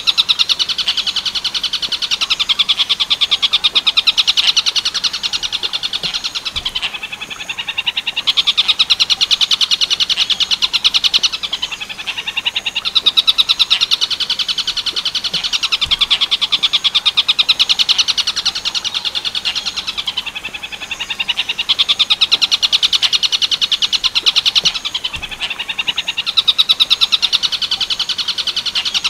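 Recorded tengkek buto bird song, Werkudoro style: a loud, fast, rattling chatter that runs on in phrases of about four seconds, each broken by a brief dip before the next.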